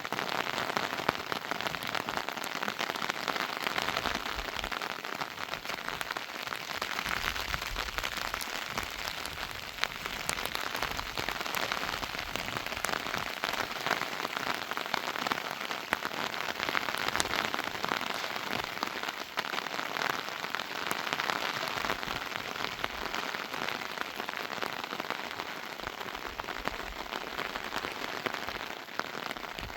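Rain falling steadily, a dense patter of many drops.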